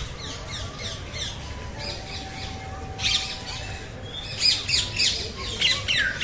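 Many birds chirping, with loud harsh squawking calls about three seconds in and again near the end.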